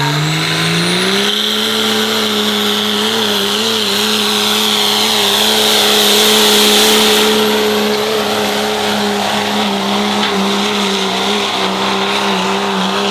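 Diesel pickup truck engine in a sled pull: it revs up in the first second or so, then holds at a steady high rpm under load with a slight waver, with turbo whistle and hiss over it. It is loudest around the middle.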